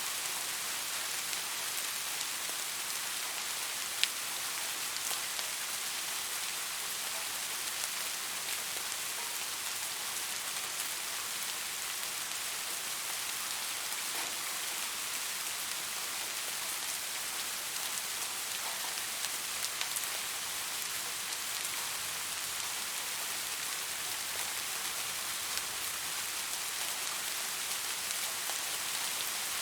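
Steady rain falling, an even hiss with scattered sharper drop impacts, one louder drop about four seconds in.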